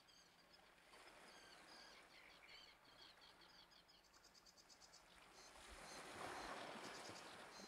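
Faint outdoor ambience of small birds calling, with short high chirps and quick trills, and a soft rushing swell that rises and fades in the second half.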